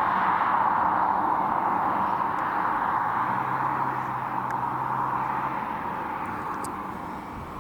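A road vehicle driving away, its tyre noise fading slowly, with a brief low engine hum in the middle.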